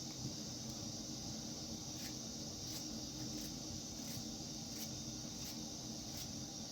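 Steady high hiss over a low hum, with faint irregular ticks about once a second.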